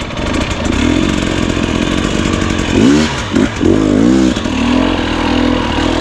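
Two-stroke enduro dirt bike engine running under the rider, revving up and back down a few times around the middle, then holding a steadier note.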